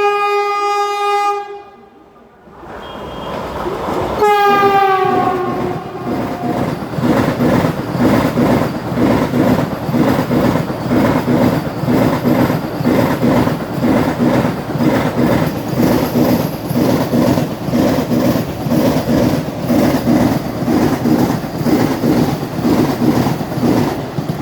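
Vande Bharat Express trainset sounding its horn twice, the second blast sliding down in pitch as the train passes. The coaches then run by with a steady, rhythmic clatter of wheels over the rail joints.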